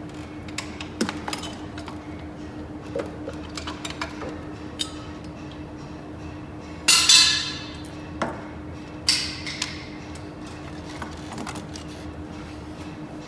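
Metal hand tools and engine parts clinking and knocking, over a steady hum. A loud ringing metallic clank comes about seven seconds in, and another about nine seconds in.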